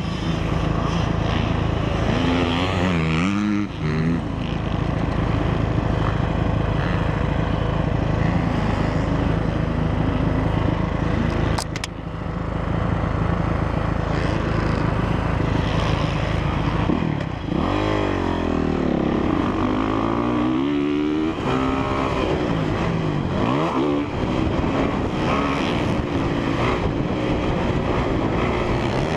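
2017 Honda CRF450R's single-cylinder four-stroke engine running under riding. It holds steady at first, then revs up and down repeatedly from a bit past halfway, with one sharp knock about twelve seconds in.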